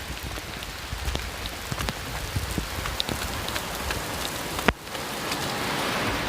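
Heavy rain pouring down, with many close drops ticking. A sharp knock sounds about three-quarters of the way through, and the rain is a little louder after it.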